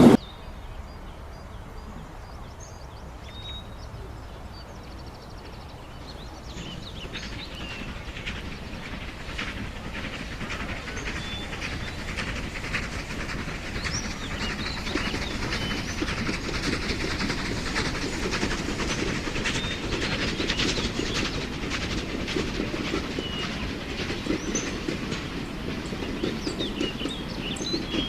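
A train running on jointed track, its wheels clicking over the rail joints, growing louder from about six seconds in and staying loud through the second half.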